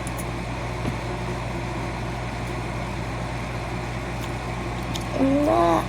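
Steady low droning background noise with a constant hum, unchanged throughout; a voice sounds briefly near the end.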